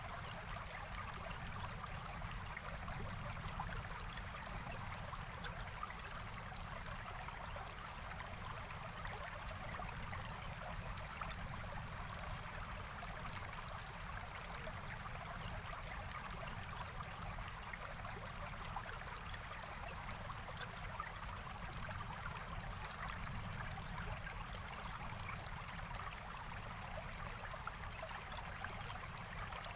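Forest stream flowing steadily over stones, a continuous babbling rush of water with no change in level.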